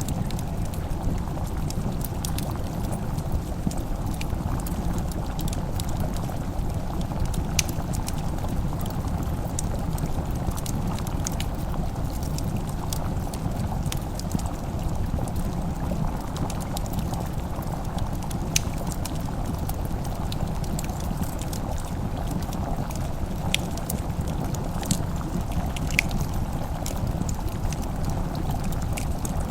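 Wood fire crackling, with sharp scattered pops every second or two, over a steady low bubbling and rumbling bed like a pot simmering.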